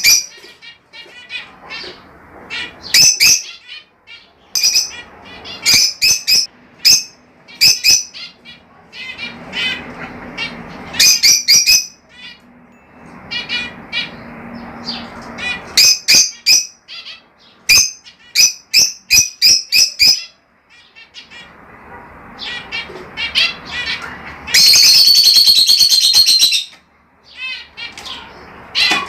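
Budgerigars chirping and squawking in quick, loud bursts of short calls, with one loud drawn-out squawk lasting about two seconds near the end.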